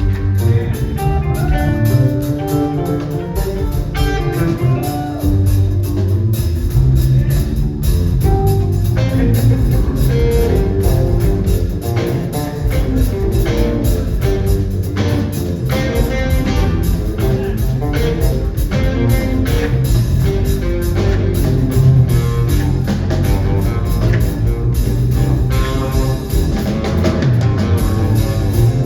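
Live rock band playing an instrumental passage with no singing: electric guitar lines over bass and a drum kit, loud and continuous.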